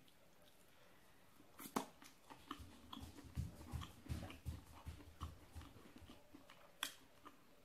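Faint close chewing of a mouthful of sate, grilled meat bitten off a wooden skewer: small wet clicks and soft smacks of the mouth, with a sharper click about two seconds in and another near the end.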